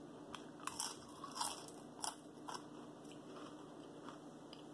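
A person chewing crisp french fries: a run of crunchy bites in the first two and a half seconds, then softer chewing.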